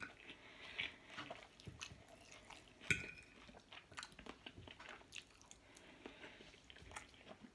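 Faint chewing of a mouthful of food, with small wet mouth clicks throughout and one sharper click about three seconds in.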